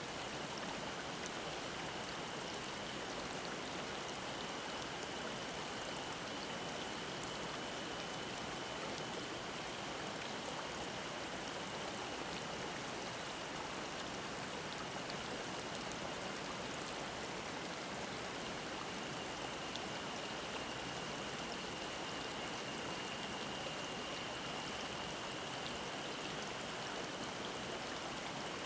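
Mountain stream babbling steadily over rocks, with a faint, continuous cicada drone at a single high pitch behind it.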